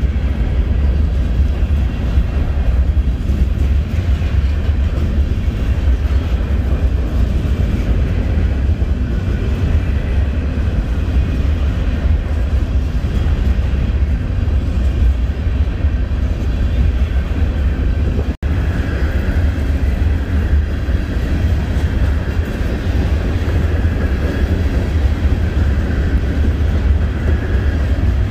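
Freight train of empty covered grain hoppers rolling past close by: a steady heavy rumble of wheels on rail. The sound drops out for an instant about two-thirds of the way through.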